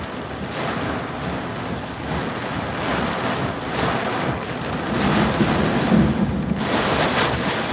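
Severe thunderstorm wind gusts and heavy wind-driven rain buffeting a car, heard from inside the cabin, surging in waves and loudest about five to six seconds in. The winds are rocking the whole car and are probably at least 65 mph.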